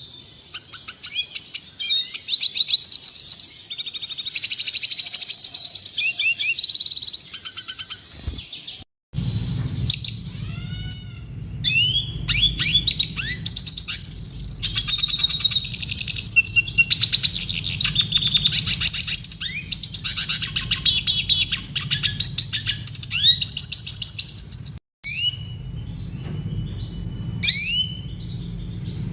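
Red siskin song: fast, high twittering trills mixed with quick rising chirps and swept notes, continuous except for two brief cut-outs, about nine seconds in and near the end. A low hum runs underneath from the first cut-out on.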